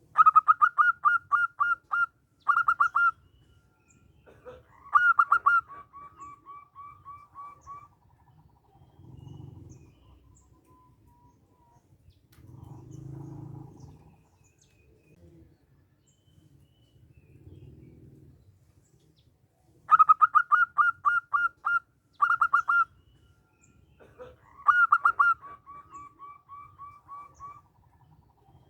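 Zebra dove (perkutut) singing two song bouts. Each bout opens with a quick run of about eight clipped notes and a short extra burst. A louder phrase follows and trails off into a series of softer notes that step slightly lower in pitch.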